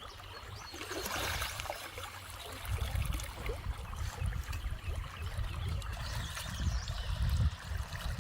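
Water trickling and running, with an uneven low rumble coming in about three seconds in.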